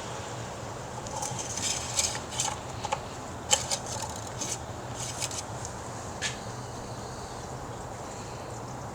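Oil dipstick being pulled from its tube and handled to read the oil level: a series of short, sharp metallic clicks and scrapes over the first two-thirds, over a steady low hum.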